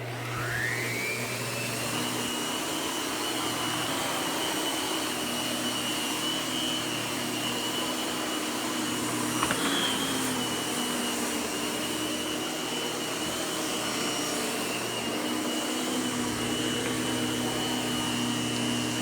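Miele upright vacuum cleaner switched on: its motor whine rises quickly in pitch over the first couple of seconds as it spins up, then runs steadily. The pitch wavers briefly once about halfway through.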